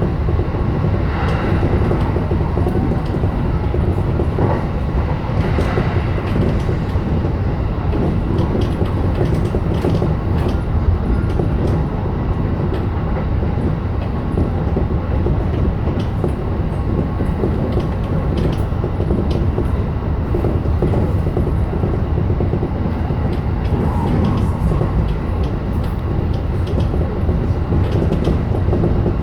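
JR E233-7000 series electric train running at speed: steady running noise of wheels on rail, with occasional faint clicks.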